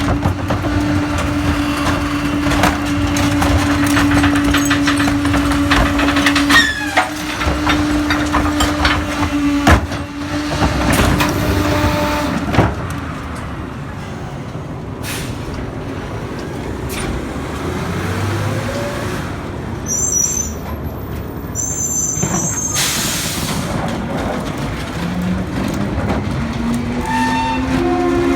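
Garbage truck with a Pak-Mor rear-loader body working heavy trash: a steady hydraulic hum with clanks and crunching for the first ten seconds or so, then an air-brake hiss about two-thirds of the way through and the engine revving up with rising pitch near the end.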